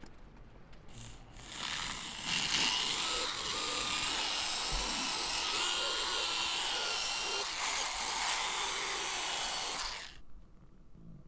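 A handheld power tool runs for about eight seconds in knife-making work, with a hissing grind and a whine that wavers slightly in pitch. It starts about a second and a half in and stops shortly before the end.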